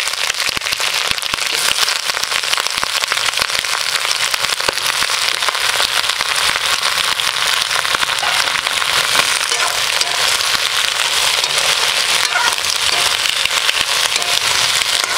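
Bottle gourd greens, potato, pumpkin and beans sizzling and crackling in hot mustard oil in a steel wok: a loud, steady crackle of freshly added wet vegetables hitting the hot oil.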